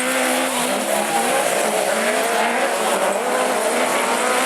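Several autograss racing cars' engines revving together, their pitches rising and falling as they race round.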